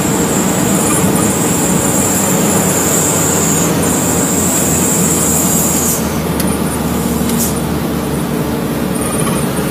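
Truck driving on the road: a steady rumble of engine and tyre noise, with a thin high whine over it that breaks off a couple of times.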